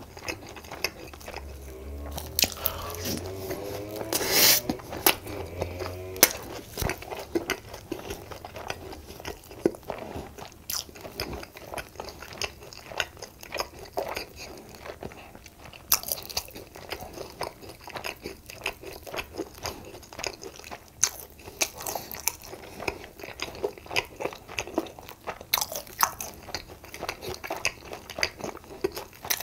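A person eating close to the microphone: chewing and crunching food with many irregular wet mouth clicks and crackles. There is a louder stretch about two to six seconds in, peaking near four and a half seconds.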